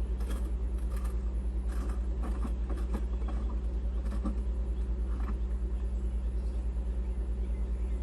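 An engine running steadily with a low, evenly pulsing hum, with a few faint clicks and rattles of handling over it.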